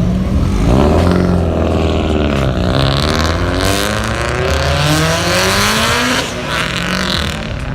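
Car engine revving hard, its pitch climbing, dropping sharply about two and a half seconds in, then climbing again before it fades about six seconds in.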